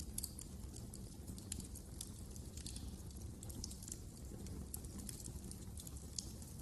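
Wood fire crackling in a fireplace: irregular small snaps and pops over a low steady rumble of burning.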